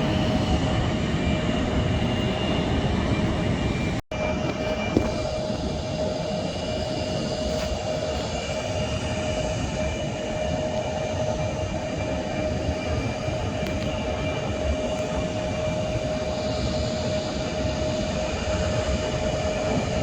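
Jet airliner engine noise: a steady rush with a constant whine. The sound breaks off abruptly about four seconds in at a splice and carries on slightly quieter.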